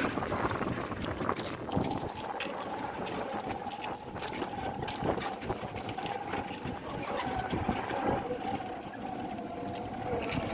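A steady, slightly wavering hum from a distant motor comes in about two seconds in, over outdoor background noise with scattered clicks.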